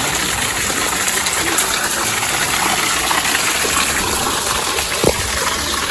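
Steady rushing of flowing water, like a forest stream or small waterfall, with one short click about five seconds in.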